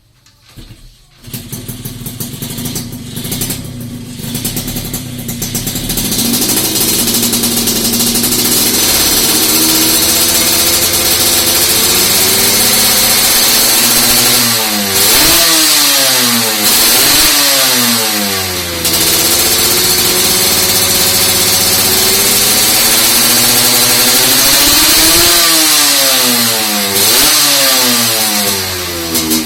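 Yamaha RX-King's two-stroke single-cylinder engine, fitted with an Axanthic 3V3 Classic aftermarket exhaust, starting about a second in and running unevenly at first before settling into a steady idle. It is then revved in quick blips, about three in a row midway and two more near the end.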